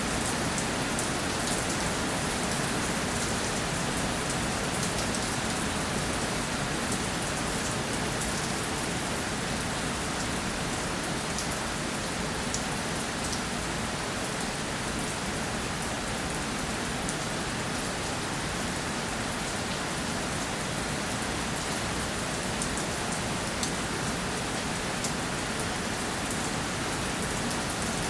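Steady rainfall, with a dense even hiss and many fine individual drops pattering on a surface.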